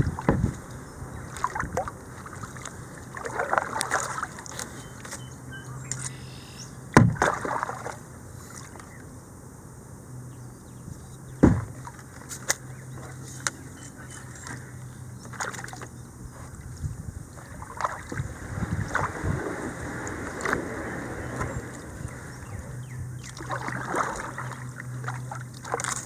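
Kayak paddling: the paddle dips and splashes and water sloshes, with two sharp knocks about seven and eleven seconds in.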